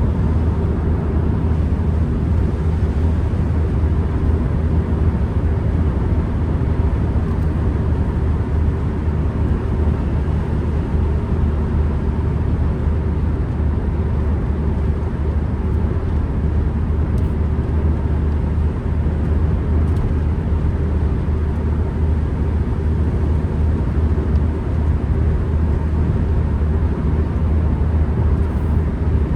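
Ford Transit Connect van's engine and road noise heard from inside the cabin, a steady low drone while cruising at an even pace.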